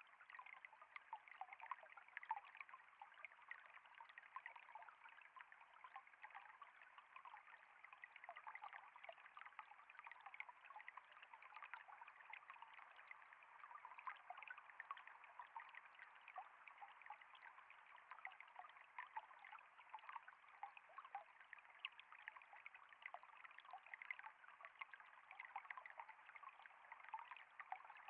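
Faint, steady trickling of flowing water, with many small splashes.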